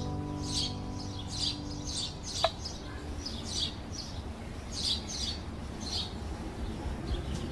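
Small birds chirping, short high notes repeating irregularly, with a single sharp click about two and a half seconds in.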